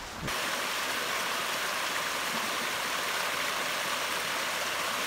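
Steady rush of small forest creeks cascading down out of the hills and running together.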